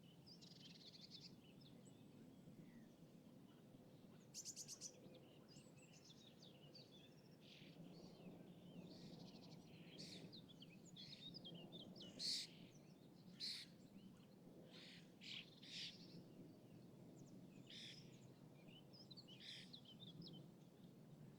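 Quiet lakeside ambience with birds chirping on and off, including a quick rapid run of chirps about four seconds in and a few louder calls past the middle, over a steady low rumble of a distant city.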